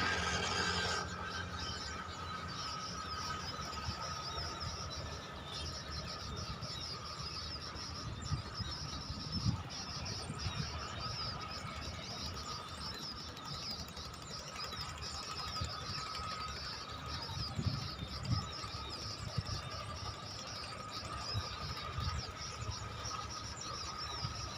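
Birds chirping and twittering continuously, with a steady thin tone running underneath and a few soft low thumps.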